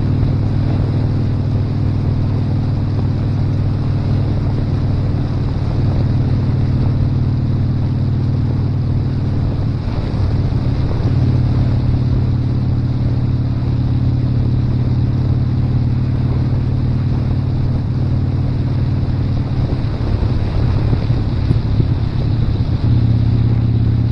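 Motorcycle engine running steadily while riding, with wind rushing over the microphone; the engine note shifts slightly about ten seconds in and again near the end.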